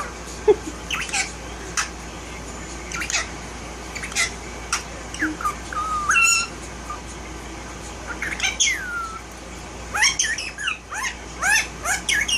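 Indian ringneck parakeet giving a string of short squawks and chirps, some sliding in pitch, with a brief lull about seven seconds in.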